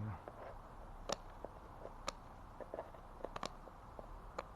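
Fiberglass reinforcing mesh being handled and fitted: a dozen or so faint, sharp, irregular clicks and ticks.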